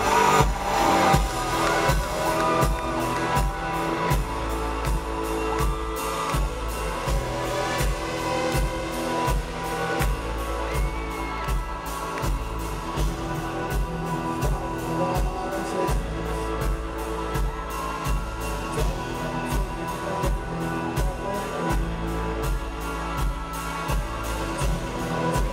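Live rock band playing amplified guitars over a steady drum beat.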